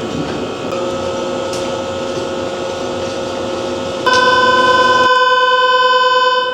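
Steady railway background noise, then about four seconds in a loud, steady electronic tone of several pitches sounds for about two and a half seconds before cutting off.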